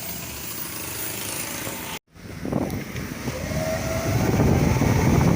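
Vehicle running on the road, with a steady hum. About two seconds in the sound cuts out briefly, and after that louder low rumbling from wind buffeting the microphone takes over.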